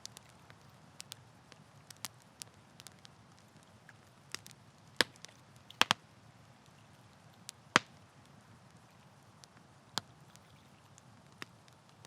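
Campfire wood crackling: irregular sharp pops and snaps over a soft low hiss, with a few louder pops near the middle.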